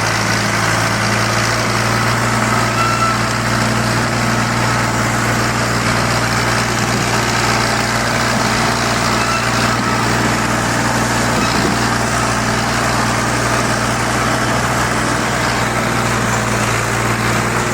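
Tractor diesel engine running steadily at an even speed, with a constant low hum and no revving.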